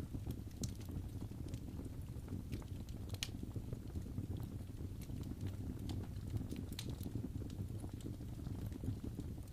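Wood fire in a fireplace crackling: sparse, irregular sharp pops and snaps over a steady low rumble of the flames.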